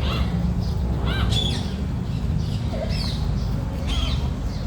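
Several short bird chirps and squawks, quick sweeping calls coming every second or so, over a steady low rumble.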